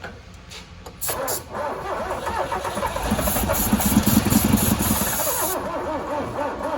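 Old truck engine cranked by the starter, starting suddenly about a second in and catching, louder and heavier for a couple of seconds before settling into a rhythmic run. It is fed by a fuel line put straight into the carburetor.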